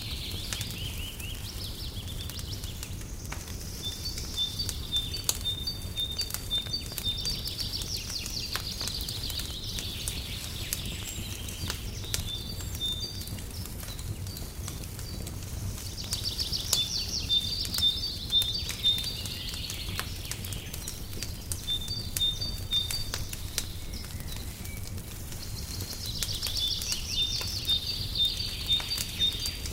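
Fireplace crackling with scattered sharp pops over a low steady rumble, while birds sing in phrases of rapid chirps and trills that come back about every ten seconds.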